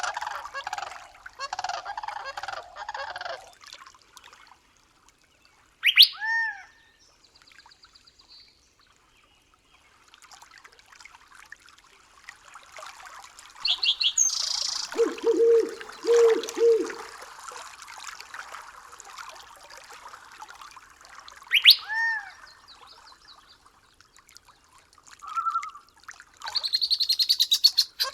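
Forest ambience with assorted bird calls: chirping and trills, two sharp calls that sweep up and then fall, and three low calls about halfway through.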